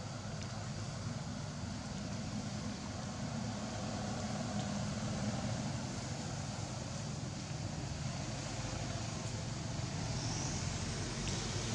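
A steady low engine drone, like a motor vehicle running, with an even noisy hiss over it.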